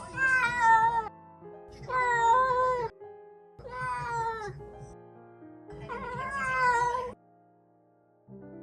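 Domestic cat meowing loudly four times, each call a drawn-out yowl of about a second, with short pauses between.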